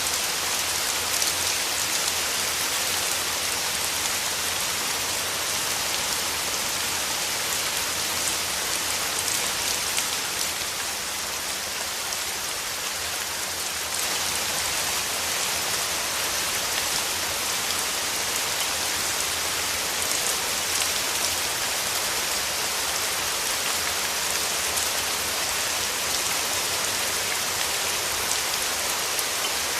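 Steady rain falling: an even hiss with fine scattered drop sounds, a little softer for a few seconds in the middle.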